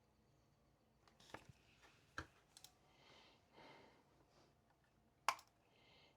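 Near silence with a few scattered sharp clicks or taps, the loudest about five seconds in, and a faint soft rustle in between.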